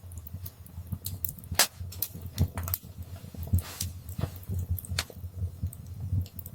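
Wood fire in a fireplace crackling, with irregular sharp pops and snaps over a low rumble of the flames.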